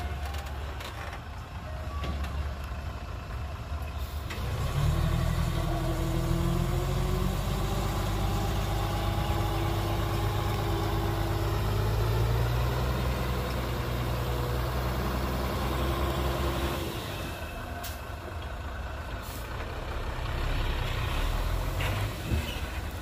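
Heavy diesel engines of earthmoving machinery running, growing louder about five seconds in and easing off again about three-quarters of the way through.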